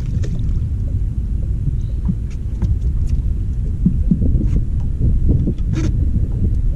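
Wind buffeting the microphone: a steady low rumble, with a few short knocks and clicks on top, the sharpest a little before the end.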